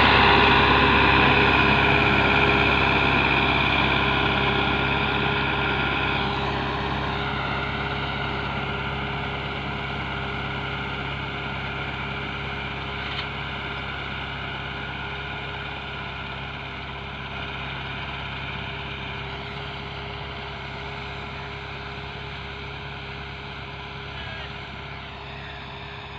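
Tractor engine running steadily at a constant note, growing gradually fainter.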